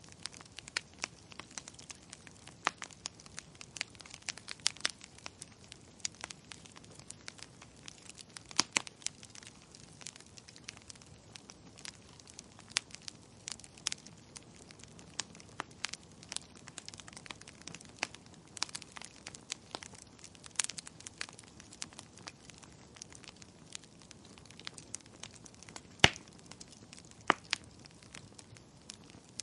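Firewood burning, crackling with irregular sharp snaps and pops over a soft steady hiss; a few snaps stand out louder, the loudest about 26 seconds in.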